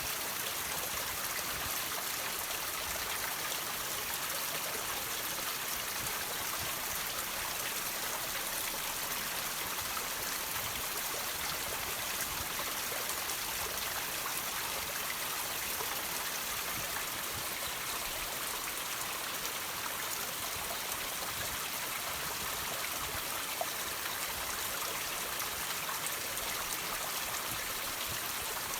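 Water dripping and trickling from rocks: a steady hiss made up of many small splashing drops.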